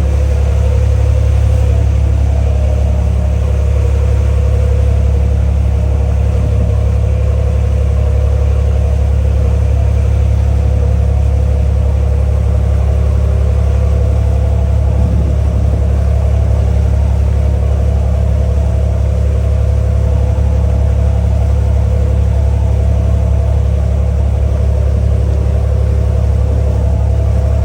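Ferry engine heard on board, running steadily through the crossing: a loud, unchanging deep drone with a steady hum above it.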